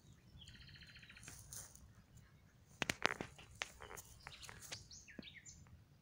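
Small birds singing in the open: a fast trill of repeated notes about half a second in, then short chirps and gliding high notes in the second half. A few sharp clicks just before the middle are the loudest sounds.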